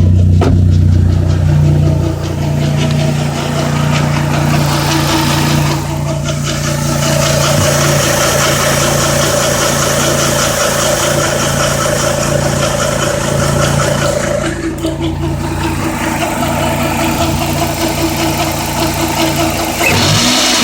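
Chrysler PT Cruiser's four-cylinder engine running with a whining noise from the harmonic balancer (crankshaft pulley), which the owner takes for a failing balancer. The sound is steady, and its loudness and tone shift a few times.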